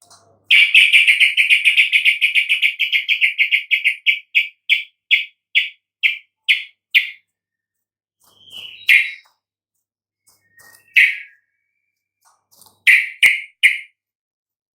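Yellow-vented bulbul (trucukan) song: a fast chattering run of sharp notes that slows into separate notes a few a second, then a few isolated notes and a quick group of three near the end.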